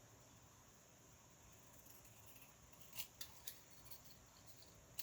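Near silence with three faint, quick snips of scissors cutting paper about three seconds in.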